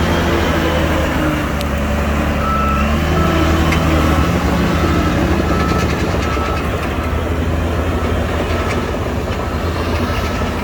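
Heavy diesel earthmoving machinery running under load, with a reversing alarm starting about two and a half seconds in and beeping steadily at about two beeps a second.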